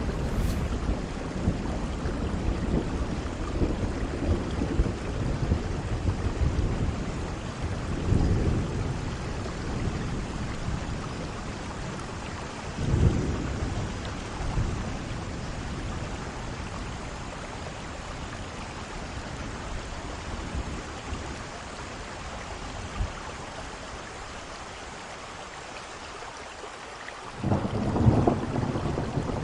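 Steady rain with thunder rumbling: low rolls about 8 and 13 seconds in. The rain eases off for a few seconds before a loud roll of thunder comes in near the end.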